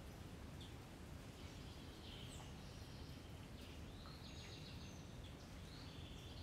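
Faint birds chirping, a few short calls scattered through, over a steady low background noise.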